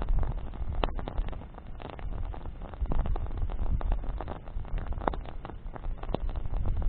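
A campfire of burning branches crackling, with irregular sharp pops and snaps over a low, uneven rumble. The loudest pops come about a second in and again around five seconds in.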